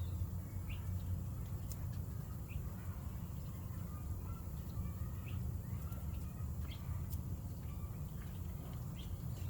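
Scattered short, faint bird chirps, a second or two apart, over a steady low rumble.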